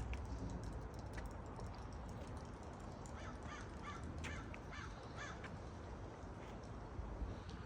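A crow cawing a quick series of about six short caws, over wind rumbling on the microphone.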